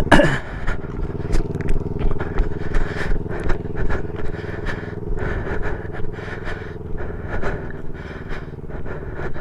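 Motorcycle engine running at a steady idle close by, with irregular scuffing and knocking noises over it.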